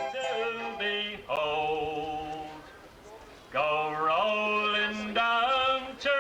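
Male voice singing a sea song with long held notes. The singing falls away for a moment about halfway through, then comes back in.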